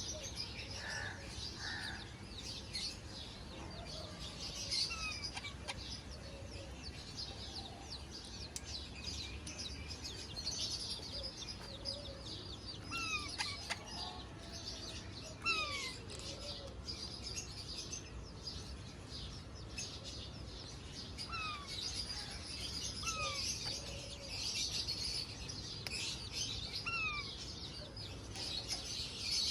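Birds chirping and twittering continuously, with a short falling whistle note repeated every second or two.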